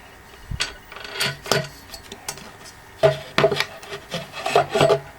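Wooden panel and steel supports of a printer stand knocking and scraping against each other as they are turned over and handled, with a rapid run of sharp knocks in the second half.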